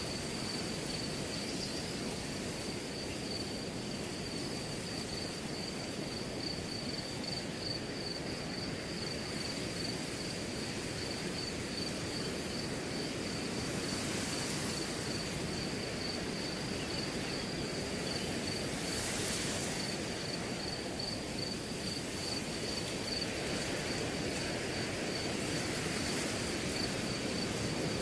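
Wind blowing through a grass field with a steady rustling hiss that swells a little now and then, and a cricket chirping in an unbroken run of rapid, even pulses on one high pitch.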